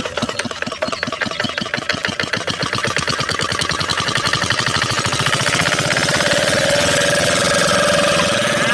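Mini tractor engine chugging and speeding up, its even beats coming faster and faster until they merge into a steady run, louder as it goes.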